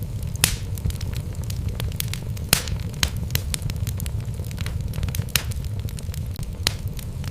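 Wood fire burning in a fireplace: a steady low rumble of the flames with irregular sharp crackles and pops from the logs, two louder pops about half a second and two and a half seconds in.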